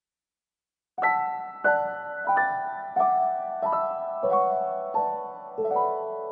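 Gentle piano music: a slow melody of single notes about every two-thirds of a second, each ringing and fading, starting about a second in.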